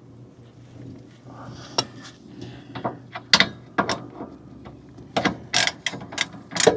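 Irregular sharp metal clicks and clanks of a socket ratchet and hand tools being worked on a car's rear wheel hub bolts, coming in short bunches from about two seconds in, the loudest near the end.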